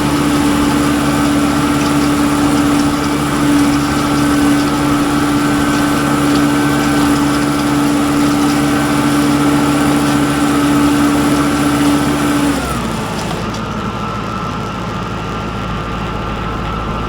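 Tractor engine running steadily at working speed with a strong hum. About twelve and a half seconds in it drops to a lower, quieter speed.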